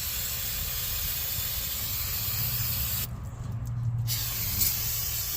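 Aerosol parts cleaner spraying in a steady hiss as it washes gunk off drum brake parts. The spray stops about three seconds in and starts again about a second later.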